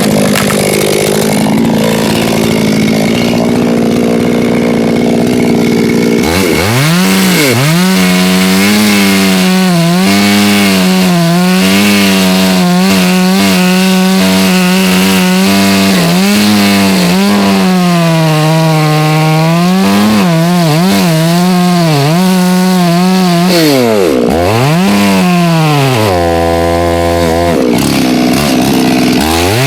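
Two-stroke chainsaw running loud at high revs, then cutting through oak firewood: from about six seconds in, its engine pitch repeatedly sags and recovers as the chain bogs under load, with one deep dip near the end.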